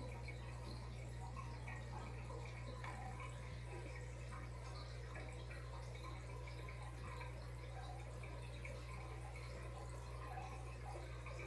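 Aquarium water trickling and dripping in small irregular droplets over a steady low hum.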